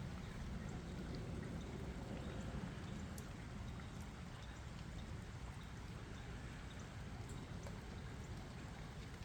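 Steady rain falling, with scattered faint drop ticks over an even hiss.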